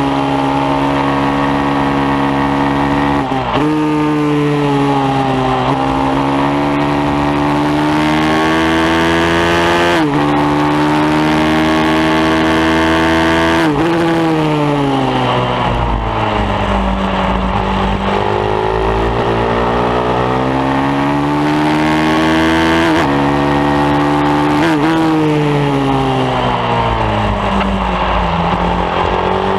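Pit bike engine at full throttle on a track lap. Its pitch climbs and drops sharply at each gear change. About halfway through it falls away for several seconds as the bike slows, then climbs again through the gears.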